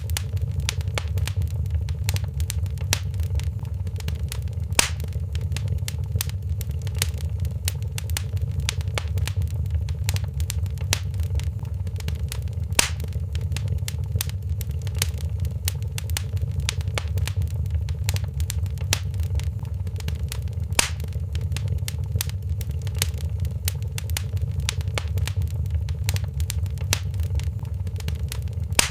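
Wood fire crackling in a fireplace: a steady low rumble of the flames under constant small crackles, with four louder pops spaced about eight seconds apart.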